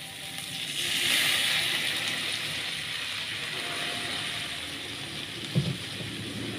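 Stir-fry of papaya leaves and anchovies sizzling in a hot pan as a little water goes in: the hiss surges loudly about a second in and then slowly settles to a steadier sizzle. There is a single knock near the end.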